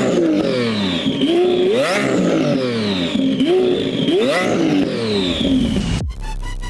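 Twin-turbo Lamborghini Aventador V12 accelerating hard through the gears: the engine note climbs in pitch and drops at each upshift, several times, roughly once a second. Near the end it cuts off and electronic music starts.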